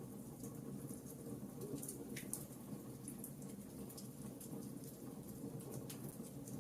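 Wood fire of burning logs crackling: irregular small snaps and pops scattered over a quiet, steady low rumble of the flames.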